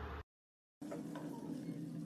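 Cucumber slices and egg sizzling gently in oil in a frying pan. About a quarter-second in, the sound cuts out to dead silence for half a second, then the sizzling resumes with a steady low hum under it.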